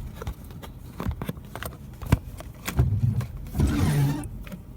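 Scattered small clicks and knocks of a screwdriver and plastic steering-column trim being handled and fitted back in place, with a short scraping rustle about three and a half seconds in.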